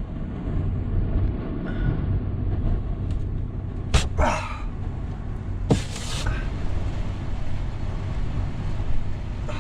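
Storm-force wind buffeting a pickup truck as heard from inside the cab: a steady low rumble. Two sharp knocks stand out, about four and six seconds in.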